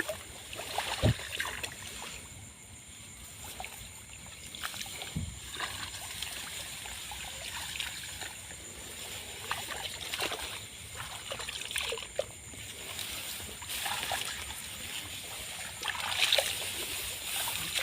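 Water splashing and trickling in irregular bursts, with brief sloshes scattered throughout and the loudest splashes about a second in and near the end.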